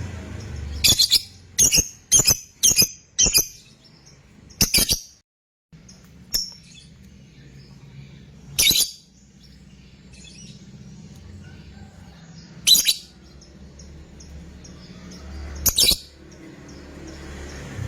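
Lovebird giving short, sharp, high-pitched calls: a quick run of about six in the first five seconds, then single calls every three or four seconds, over a faint low hum.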